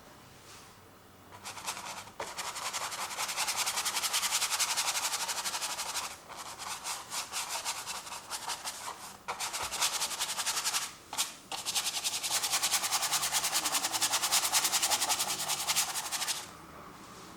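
Paintbrush scrubbing acrylic paint back and forth on canvas in rapid strokes, with a few short pauses, a dry scratchy rubbing.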